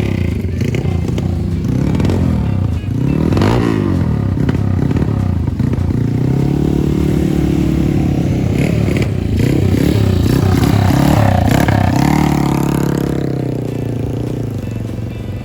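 Classic motorcycle engines running and being revved, the pitch climbing and dropping several times, with a steadier stretch of running in the middle.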